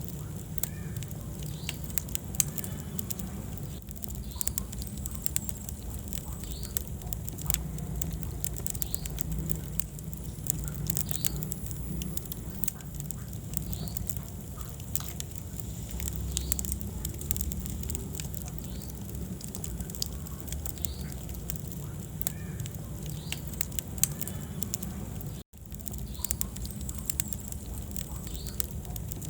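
Wood fire burning in a fireplace: frequent sharp crackles and pops over a steady low rumble of the flames. The sound cuts out for an instant near the end.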